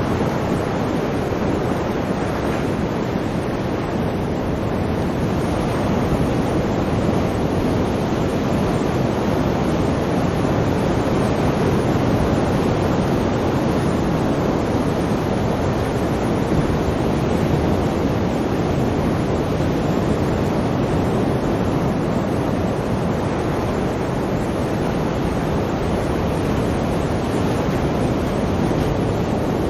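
Sea waves washing on the shore in a steady, continuous rush of surf, swelling slightly now and then.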